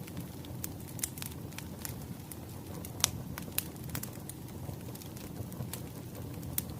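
Wood fire crackling: irregular sharp pops over a steady low rumble of burning logs, with one louder pop about three seconds in.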